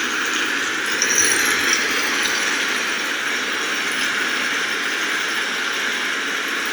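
Steady rain falling, a constant hiss and patter. About a second in, a brief high-pitched squeak sounds over it.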